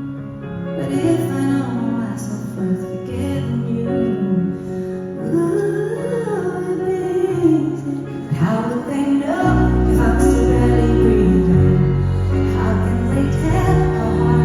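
Live female vocal singing a song with band accompaniment; a heavy bass line and fuller band come in about two-thirds of the way through.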